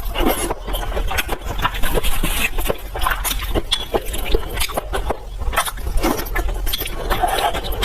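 Close-miked eating: wet chewing, smacking and slurping, with many quick clicks and crackles close together.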